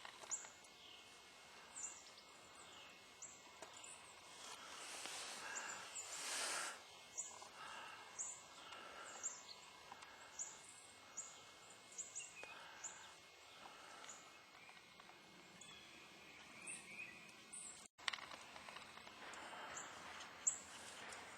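Small birds chirping: short, high, down-slurred notes repeating irregularly, one or two a second, over a steady outdoor hiss that swells twice.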